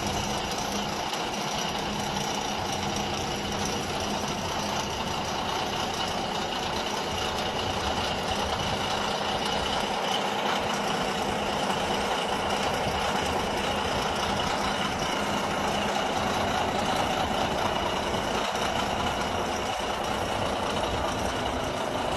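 Caterpillar D9 bulldozer's diesel engine running steadily, with an even, unchanging note.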